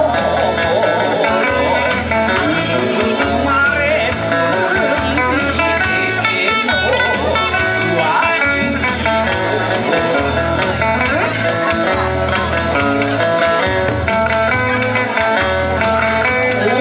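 Kawachi ondo folk music played live: a plucked guitar melody over a steady, even drum beat.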